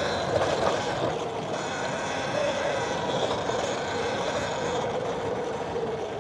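Electric dirt bike with a Sotion motor riding through sand: a motor whine that wavers up and down with speed, over a rough rushing noise.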